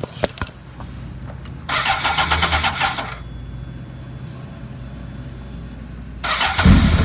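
A few sharp clicks, then a motorcycle's electric starter cranks for about a second and a half without the engine catching. Near the end it cranks again and the cold engine fires and keeps running, loud and low; the battery is flat, so it is being started off a portable jump starter.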